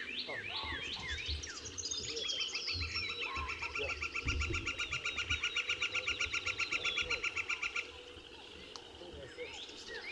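Wild birds calling: quick, repeated sweeping chirps, joined about two seconds in by a loud, even trill of about six notes a second that stops near eight seconds. A low, uneven rumble sits underneath.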